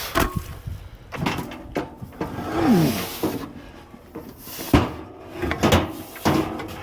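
Heavy steel log-splitter wedge being handled and shifted by hand: a series of sharp metal clunks and knocks with some scraping, and a short falling tone about two and a half seconds in.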